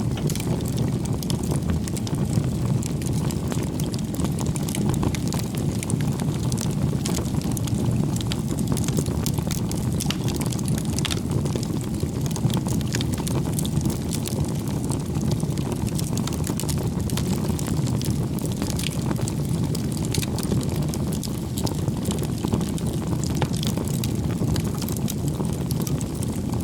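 Wood fire burning, with a steady low rumble of flames and frequent sharp crackles and pops.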